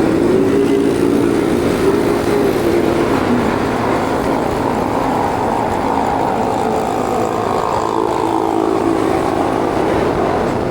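Motorbike engine running while riding, its pitch wavering up and down with speed, over a steady rush of road and wind noise.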